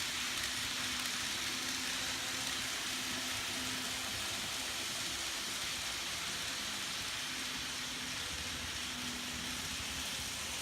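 N-scale model train running along the track: a steady rushing hiss of wheels on rail with a faint motor hum that comes and goes.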